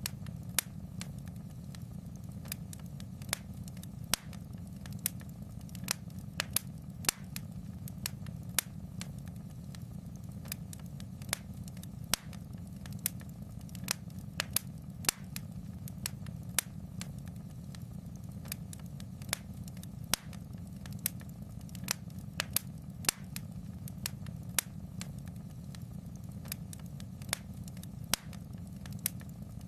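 Fire in a fireplace crackling: sharp, irregular pops and snaps, about one or two a second, over a steady low rumble.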